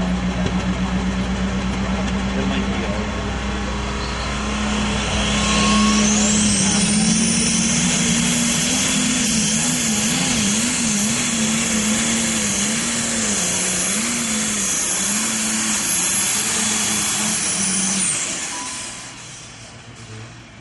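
Turbocharged diesel super stock pulling tractor making a pull at full power. The engine note comes up about four seconds in and a high turbo whine builds over it, while the engine's pitch wavers under load. Near the end the whine falls away and the engine drops off as the power is cut.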